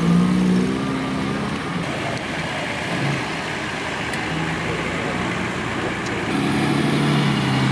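Off-road 4x4s driving slowly past one after another, their engines running at low revs. A steadier, slightly louder engine hum comes in a little after six seconds.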